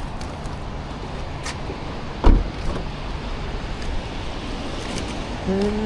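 A single loud thump about two seconds in, over steady background noise, followed near the end by a short steady hum.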